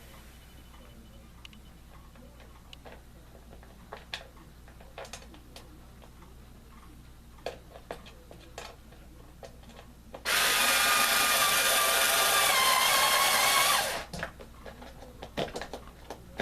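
Small clicks and handling knocks, then a power screwdriver runs for about three and a half seconds, driving a screw, its motor whine dipping slightly in pitch partway through.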